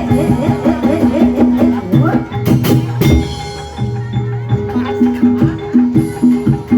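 Javanese ebeg accompaniment music: interlocking pitched percussion notes repeating in a steady rhythm over drum strokes, with a few sharp strikes near the middle.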